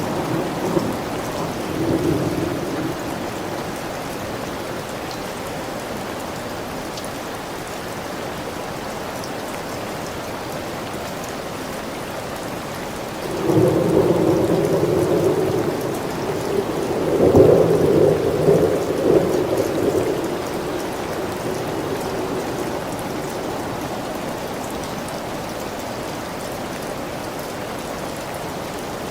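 Steady rain falling through a thunderstorm. The tail of a thunder rumble fades in the first couple of seconds, and a longer rolling rumble of thunder comes in about halfway through, peaks, and dies away.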